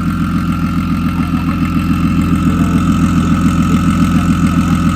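Car engine idling close by, a steady running sound with an even, regular pulse several times a second.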